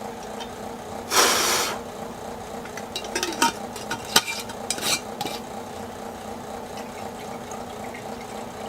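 Fuel and two-stroke oil being mixed in small plastic containers: a short rush of sloshing liquid about a second in, then a scatter of light plastic clicks and taps as the containers are handled.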